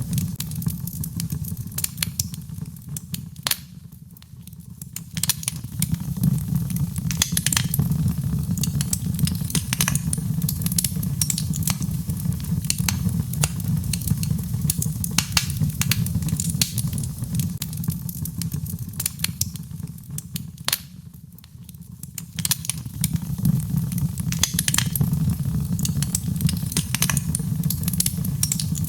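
Birch logs burning in a fireplace: irregular sharp crackles and pops over a steady low rumble of the flames. The rumble fades briefly twice, once a few seconds in and once past the middle.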